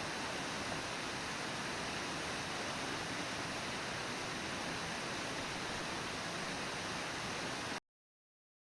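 Steady rushing roar of a river waterfall, Brooks Falls, with no other sound standing out; it cuts off suddenly near the end.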